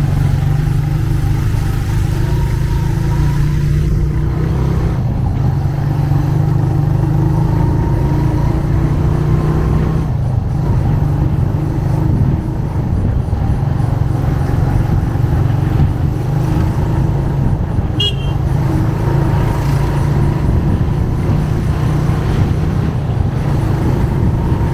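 Motorcycle engine running steadily under way, with road and traffic noise around it. A brief high beep, like a horn, comes about three-quarters of the way through.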